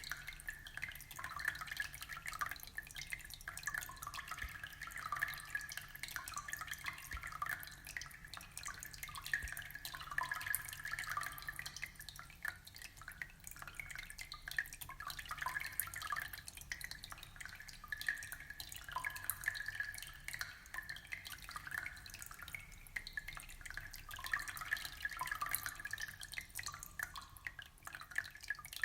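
Aquarium water trickling and bubbling: a steady, dense patter of small drips and plops.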